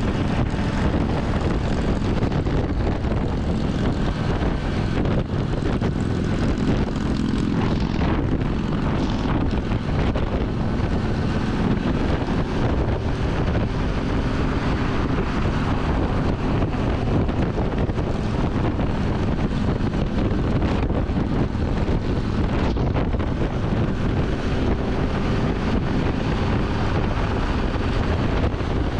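Triumph Tiger 800 XCA's three-cylinder engine running steadily at freeway cruising speed, with heavy wind rush over the bike-mounted microphone.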